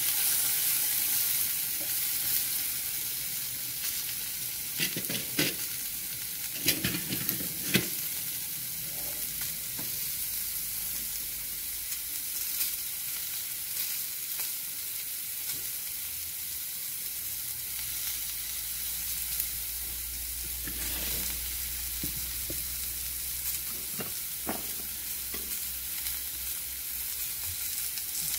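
Diced potatoes, sliced turkey wieners, green chile and onion sizzling steadily as they fry in a frying pan, with a few sharp knocks between about five and eight seconds in.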